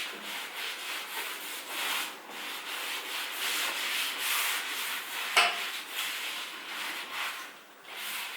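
Hand rubbing over a painted surface, uneven scraping strokes like sanding or wiping down dust. There is a single sharp knock about five seconds in.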